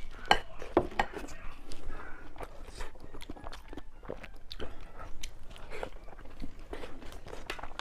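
A person eating close to the microphone: biting and chewing, with a quick, irregular run of wet mouth clicks and smacks.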